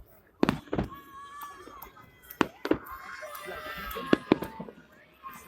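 Fireworks salute shells bursting with sharp bangs, coming in pairs about a third of a second apart, three pairs in all.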